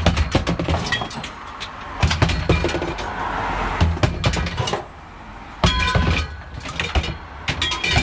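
Scrap metal being handled: a run of clanks, knocks and rattles, with several hits that ring on briefly, the loudest a little over five and a half seconds in.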